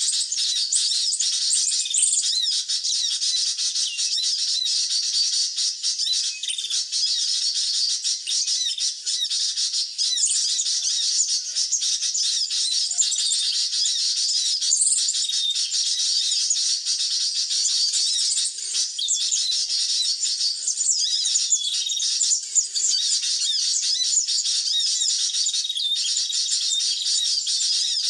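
Many small birds chirping and twittering densely and without pause, all high-pitched: the bird-trapper's lure chorus used to draw sunbirds to lime sticks.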